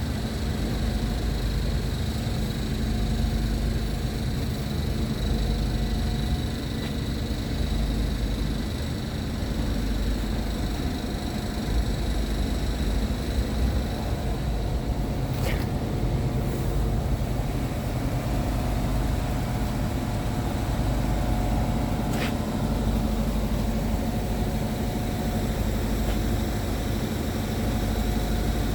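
Scania P-series truck's diesel engine idling steadily, with two brief clicks partway through.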